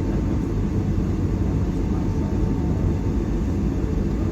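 Inside the cabin of a Boeing 757-300 taxiing after landing: a steady low rumble of the engines at idle and the airframe rolling, with a faint steady tone.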